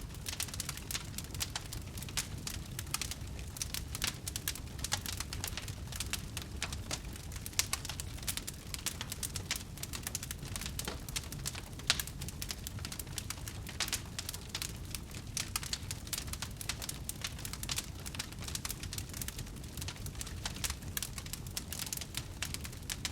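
Wood fire crackling: a dense, irregular stream of small pops and snaps over a steady low rumble, with one sharper, louder pop about halfway through.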